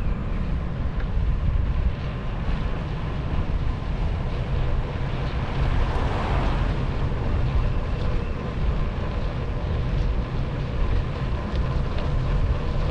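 Wind rumbling on the microphone of a camera carried on a moving bicycle, a steady low noise. About six seconds in, a brief rushing swell rises and fades.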